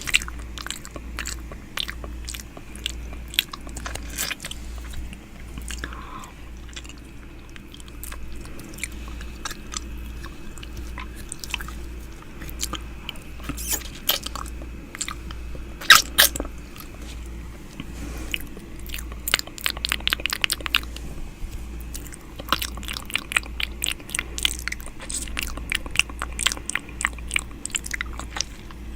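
ASMR ear-eating mouth sounds close to the microphone: wet clicks, smacks and nibbling, coming in quick dense runs in the second half, over a low pulsing hum.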